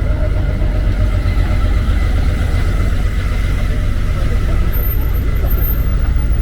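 Steady road traffic running, with a continuous low rumble.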